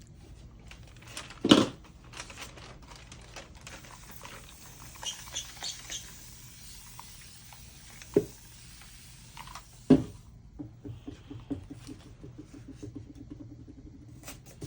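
Hands smoothing a sheet of damp decoupage paper down onto a box top, with scratchy rubbing and rustling of the paper. There are three sharp knocks, the loudest about a second and a half in, and a run of quick light ticks near the end.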